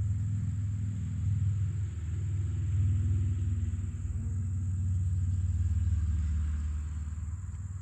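A steady low rumble that swells and eases gently, fading a little near the end.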